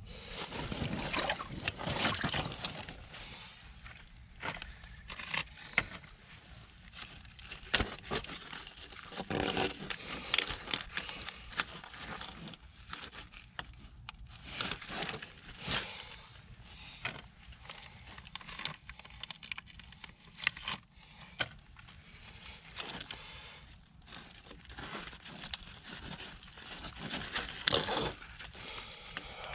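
Irregular scrapes and knocks from work by hand, with quieter stretches between them.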